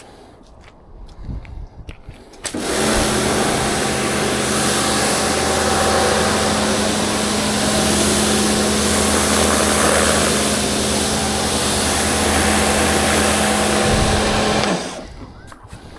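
An electric motor starts up after a few knocks and runs at a steady, unchanging pitch for about twelve seconds, then cuts off.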